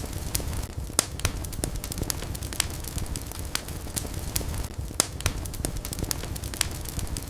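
Wood fire burning in a fireplace: irregular sharp crackles and pops, several a second, over a steady low rumble of flames.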